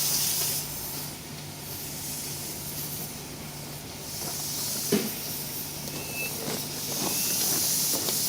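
Steam hissing from a live-steam miniature locomotive, swelling and easing, over a steady low hum, with one sharp knock about five seconds in.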